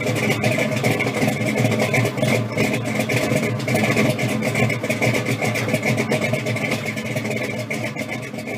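Engine of a Procharger-supercharged 1972 Oldsmobile Cutlass 442 running at idle, with a steady high whine over it, growing quieter near the end.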